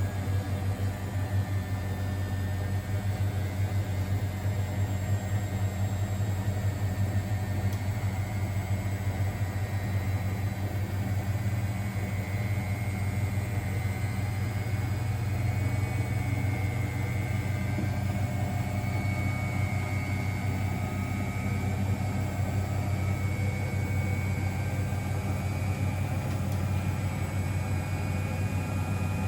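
Miele Novotronic W921 washing machine running with a steady low hum that holds unchanged throughout.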